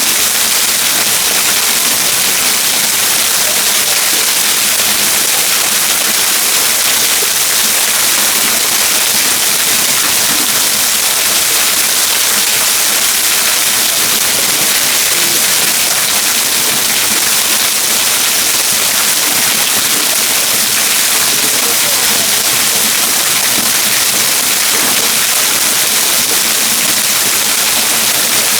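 Trettstein waterfall: a steady, hissing rush of falling water that does not change.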